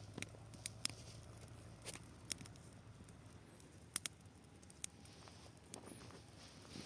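Burning dry grass crackling faintly: scattered, irregular sharp pops and ticks.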